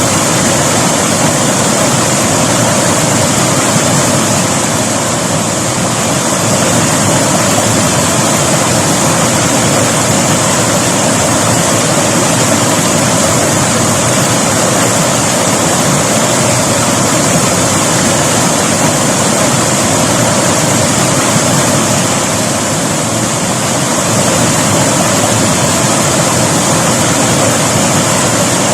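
River water flowing, a loud, steady rush.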